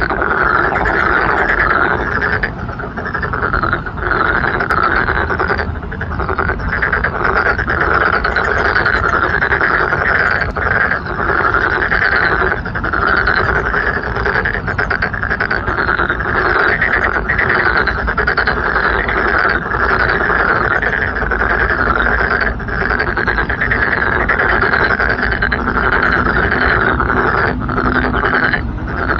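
A dense chorus of many frogs calling at once, their croaks overlapping into a continuous, loud din.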